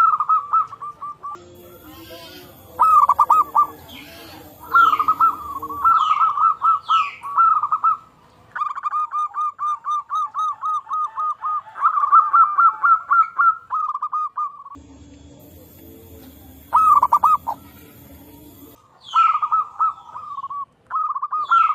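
Zebra doves cooing: rapid strings of short, clipped coo notes at about one pitch, in several bouts, with a long even run in the middle. Another bird gives short falling whistles over them.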